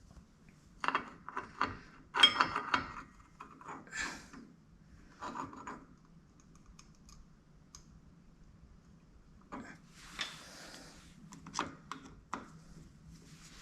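Metal parts and hand tools clinking and clattering in a string of clicks and clanks, with a short metallic ring about two seconds in and a brief scrape around ten seconds in.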